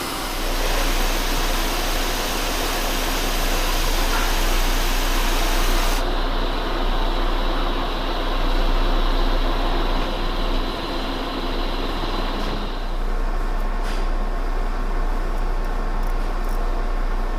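Metal lathe turning a steel shaft, a carbide insert taking a 20-thousandths finishing pass, with a steady low hum and a hiss on top. The high hiss drops away about six seconds in, and the cutting noise eases around thirteen seconds, leaving the machine's hum.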